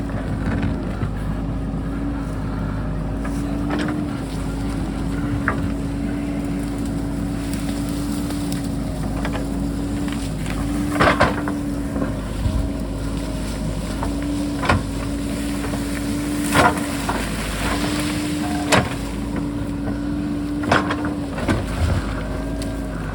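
JCB backhoe loader's diesel engine running steadily under load, its pitch lifting briefly every few seconds as the hydraulics work. About seven sharp knocks from the second third onward, the bucket striking rock.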